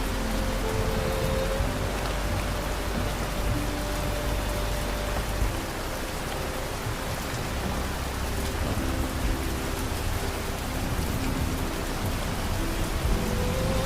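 Steady rain falling, with soft, slow music of long held notes underneath.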